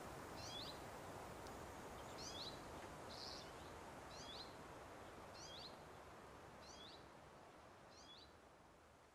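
A small bird repeating a short, high, down-slurred call roughly once a second, over a faint steady outdoor hiss, fading out towards the end.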